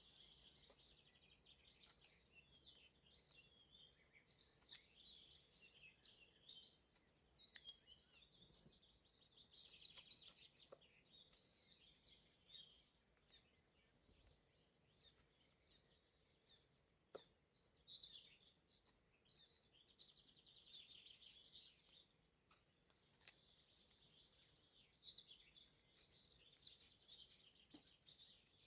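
Faint birdsong: several small birds chirping and singing without a break, with a few soft clicks.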